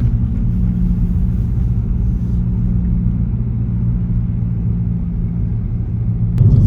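Car cabin road noise while driving: a steady low rumble of engine and tyres, which suddenly gets louder near the end.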